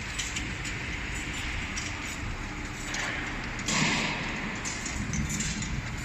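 Automatic bottle washing machine running, with glass antibiotic bottles clinking and ticking over a steady mechanical noise; a louder rushing burst comes about two-thirds of the way through.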